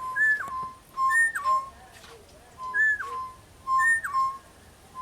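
A pair of East Coast boubous calling: four clear whistled phrases, each a high note that drops sharply to a lower held note.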